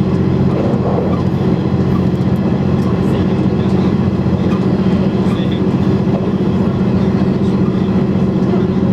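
JR East KiHa 100 diesel railcar running along the line: a steady diesel engine drone with rail running noise underneath.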